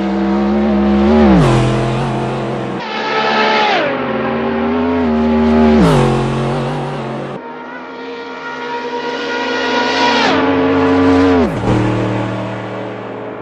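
Race car engine at high revs under hard acceleration. Its pitch climbs and then drops sharply at each gear change, several times, with abrupt jumps in the sound between shots.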